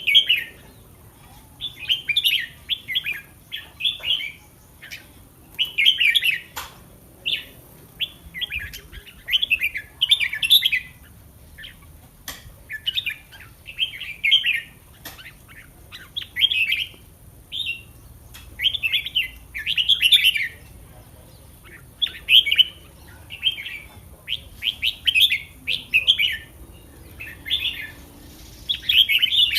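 Caged red-whiskered bulbul singing: short bright warbling phrases, one after another, every second or so with brief pauses between.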